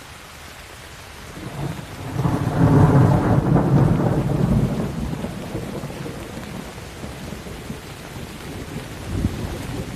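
Steady rain with a roll of thunder that builds about a second and a half in, is loudest over the next two seconds or so, and rumbles away slowly. A smaller rumble swells near the end.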